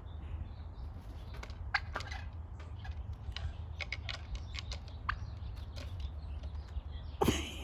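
Scattered short, sharp bird calls from birds at a feeder over a steady low hum, with one louder, sudden sound near the end.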